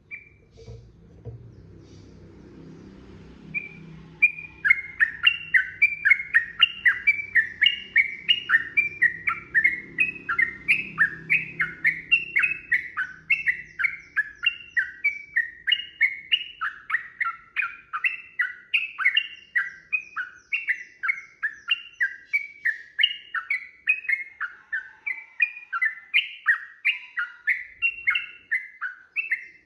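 Yellow-vented bulbul singing a long unbroken string of short, falling chattering phrases, about two a second, starting about four seconds in. A faint low rumble sits underneath in the first half.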